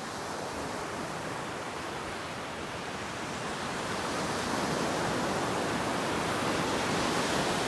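Ocean surf on a beach: an even hiss of breaking and washing waves that swells gradually and is loudest near the end.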